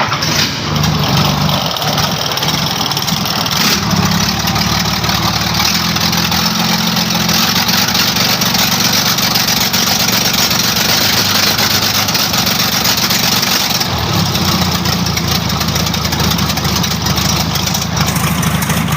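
Isuzu 6HE1 inline-six truck diesel engine just started and running. It gets busier about four seconds in and settles back about five seconds before the end. It is an engine that misfires, backfires and puffs white and black smoke, which the mechanic blames on an injection pump needing calibration.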